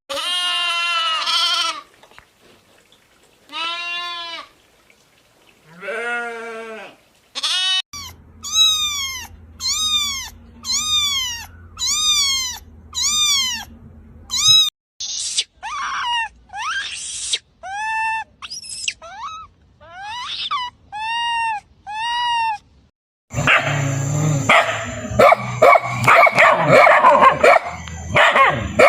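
An animal giving a series of short, high, arching cries, about one a second in the middle, then a dense jumble of noisy animal sounds near the end.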